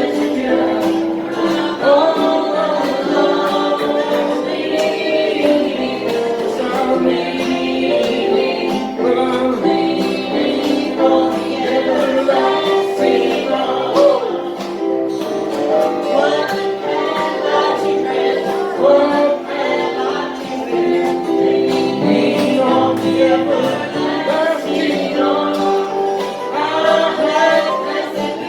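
A group of voices singing a gospel hymn together, with instrumental accompaniment.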